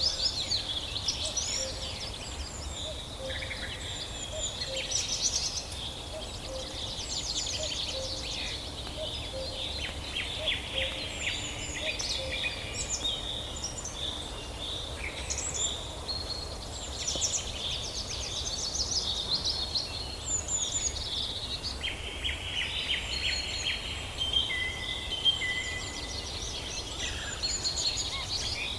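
Several songbirds calling and singing over one another in a forest chorus: quick chirps, fast trills and short whistles, over a steady low background noise.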